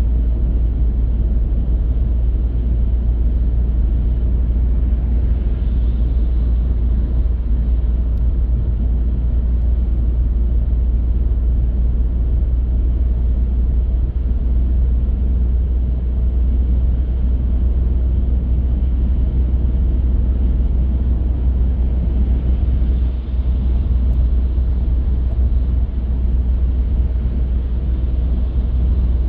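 Car driving along the road: a steady, deep rumble of tyre and engine noise with a fainter hiss above it.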